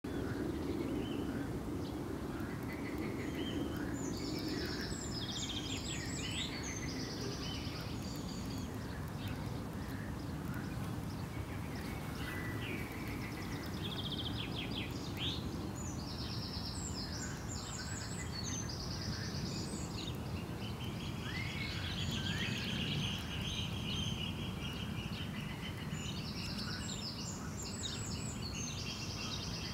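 Songbirds singing in several bursts of high, trilled and chirping phrases, over a steady low rumble of outdoor background noise.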